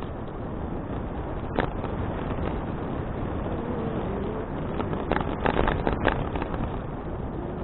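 Wind rushing over an action camera's microphone on a moving bicycle, a steady low rumble. A sharp click about a second and a half in, and a quick cluster of clicks and knocks around five to six seconds in.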